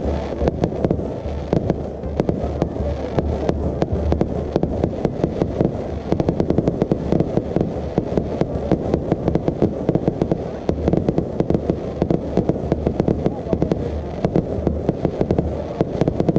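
Aerial fireworks display going off in a dense, continuous barrage: many sharp bangs and crackles a second over a steady low rumble.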